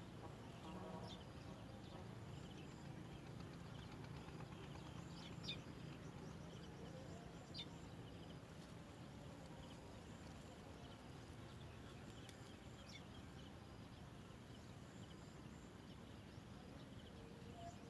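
Faint outdoor background noise with a few short, high bird chirps scattered through it, a couple of them about five seconds in.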